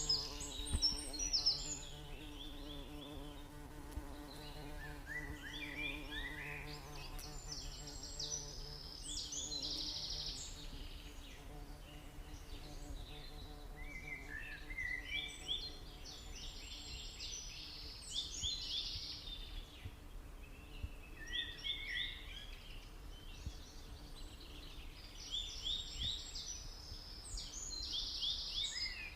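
Domestic canary singing in long bouts of rapid trills and rolls, each lasting several seconds with short pauses between. A faint steady low hum runs underneath for about the first ten seconds.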